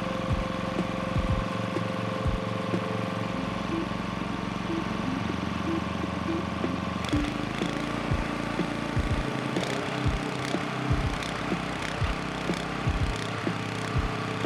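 Single-cylinder Robin generator engine running on an inexpensive aftermarket replacement carburetor, steady with regular firing pulses. Its sound changes about halfway through.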